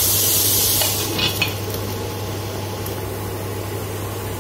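Onion-tomato masala sizzling in a wok while a wooden spatula scrapes the pan. About a second in, a glass lid goes on with a couple of clinks, and the sizzle carries on quieter and muffled under the lid.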